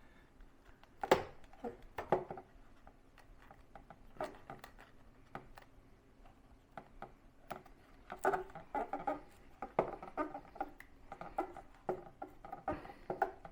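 Small hand-work sounds as a neoprene wet-suit piece is fitted onto a drone's plastic body with tweezers: scattered light clicks, taps and rustles, with a sharp click about a second in and a busier run of tapping and rustling from about eight seconds.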